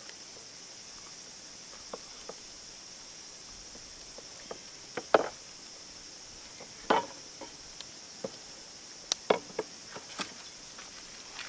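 Steady high chirring of insects, with a scattering of sharp knocks and clicks a second or two apart, the loudest about halfway through and again near the end.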